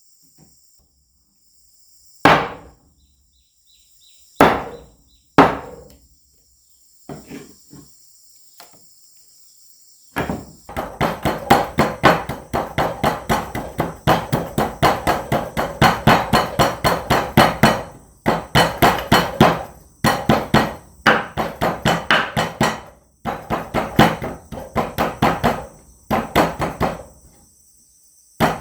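A knife chopping quickly on a wooden cutting board. There are a few single strokes at first, then from about ten seconds in, long runs of rapid chops, several a second, with short breaks. Insects buzz steadily throughout.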